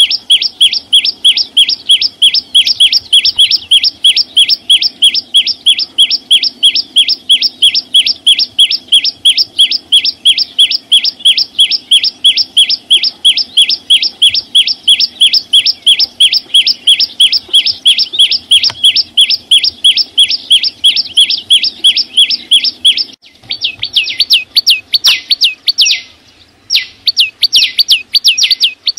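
Chim sâu xanh, a small green songbird, singing a long run of sharp repeated notes, about four a second. Around 23 seconds in it switches to a different, busier phrase, with a short break near 26 seconds.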